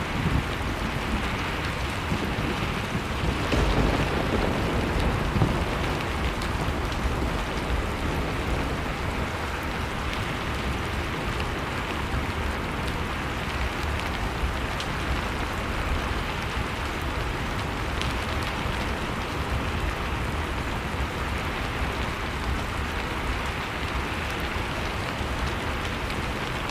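Steady rush of blizzard wind mixed with a wood fire crackling, the crackles coming as scattered small ticks over the even noise.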